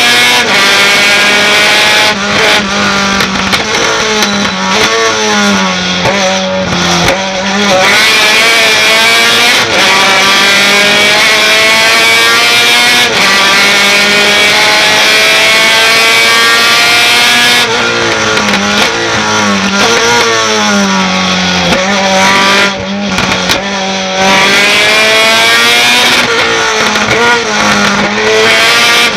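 Racing pickup truck's engine at full throttle, its pitch climbing steadily through long pulls. Twice the revs drop and jump in quick steps as it brakes and downshifts for corners: about two seconds in and again near eighteen seconds.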